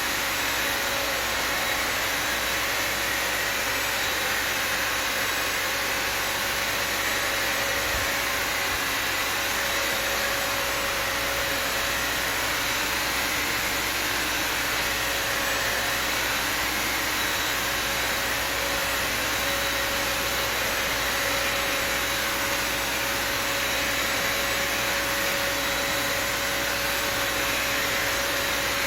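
Bissell Symphony Pet vacuum and steam mop's vacuum motor running steadily: a constant rushing hiss with a steady whine, holding the same level throughout.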